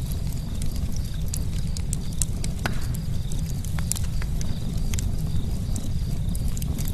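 Campfire burning, with a steady low rumble and scattered sharp crackles and pops from the burning wood.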